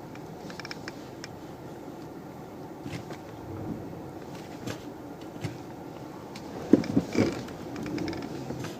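Steering of a VW Golf Mk6 creaking as the wheel is turned: a few short creaks, two of them loud close together about two-thirds of the way in, over a steady low hum and a few faint clicks. The creak is the fault the car has.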